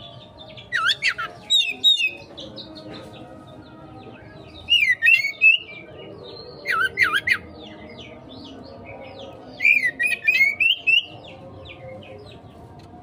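Oriental magpie-robin (kacer) singing in four short bursts of fast, harsh, jumping notes a few seconds apart: the rapid 'konslet' style of song that fanciers play as a lure to provoke other magpie-robins into singing.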